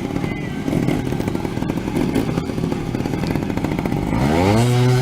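Two-stroke trials motorcycle engine running unevenly at low revs, then revved up sharply about four seconds in and held high.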